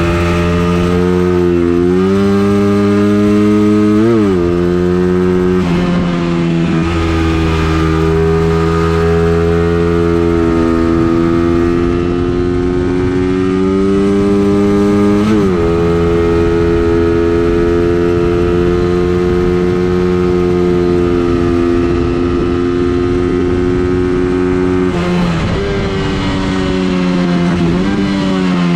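A racing vehicle's engine is run hard around a circuit, holding fairly steady high revs. Its pitch sweeps up and then drops sharply about 4 and 15 seconds in, like gear changes, and falls again near the end. The owner judges the engine to be very slow, down on power.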